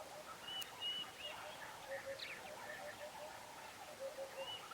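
Several birds calling at once: short chirps and whistles, with a repeated low note sounding in quick pairs and triplets.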